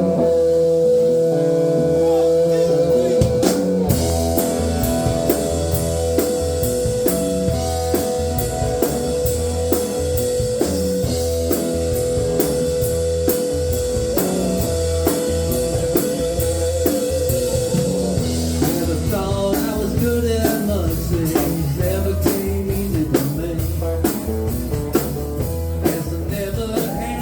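Live band playing a blues-rock song: drum kit keeping a steady beat under bass and guitar. A long held note carries through the first two-thirds, then bending melodic lines take over.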